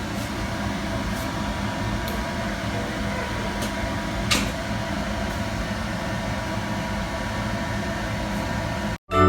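A steady fan-like hum with a few light clicks, one a little louder about four seconds in.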